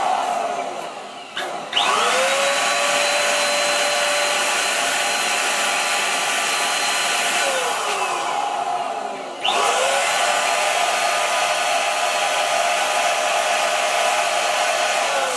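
Electric balloon pump whirring as it inflates a giant latex balloon. It spins up about two seconds in, winds down about eight seconds in, starts again about a second and a half later and winds down at the end.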